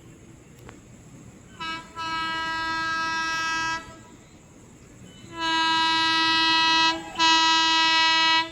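WAP-7 electric locomotive's horn sounding: a short toot, then a long blast, then two more long blasts with a brief break between them.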